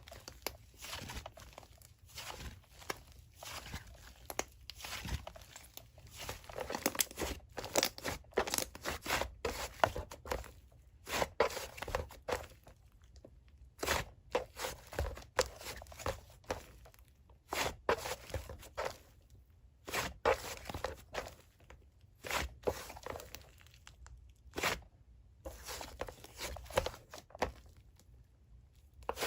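Soft squishy material being squeezed and pressed by hand, giving an irregular run of short crunches and crinkles, a few each second.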